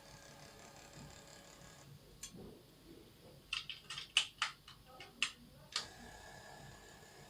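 Raex TD400 motorised curtain drive running with a faint, steady hum. The hum stops about two seconds in, and a series of sharp clicks follows. The hum starts again near the end.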